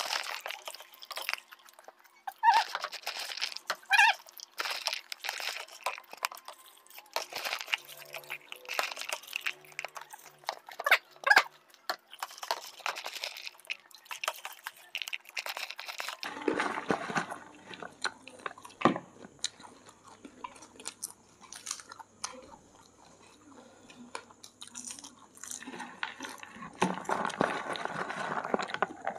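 People chewing mouthfuls of masala popcorn, with many short, sharp crunches.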